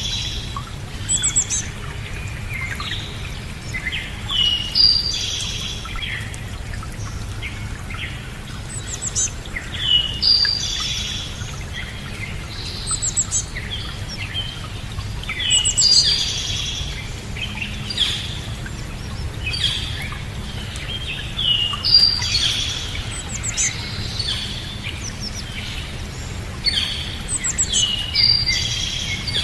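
Birds chirping and singing in short repeated phrases, some high trills among them, over a steady low rumble.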